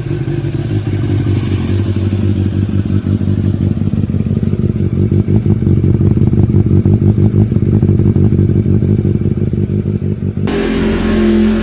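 Superbike engine running loud through its exhaust, with a rapid pulsing that swells from about halfway through as the throttle is opened. Near the end it cuts suddenly to a different engine note.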